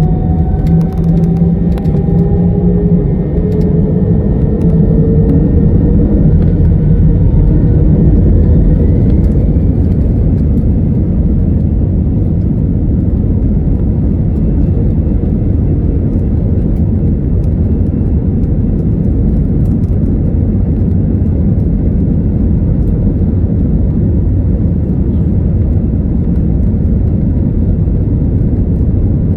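Airbus A320's jet engines heard from inside the cabin during takeoff: a rising whine as the engines spool up over roughly the first ten seconds, with a few rattles early on, then a loud, steady roar and rumble.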